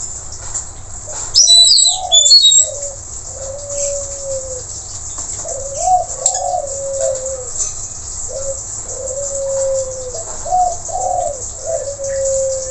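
Bird-sound recording of the long-tailed parakeet (nuri tanau): a burst of loud, shrill high calls a little over a second in. Then low whistled phrases, each a few short rising notes followed by a longer level note, repeat through the rest, over a steady high hiss.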